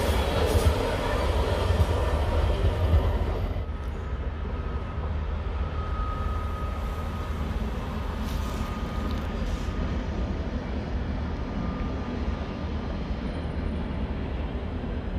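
Double-deck passenger train passing close at speed, its wheels rolling loudly on the rails. The noise drops off sharply about three and a half seconds in, leaving a steadier, lower rumble of trains further off with a faint high whine.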